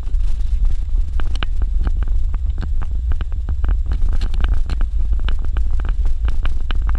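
Suzuki Jimny driving on a dirt road: a steady low rumble with many short, sharp clicks and knocks scattered through it.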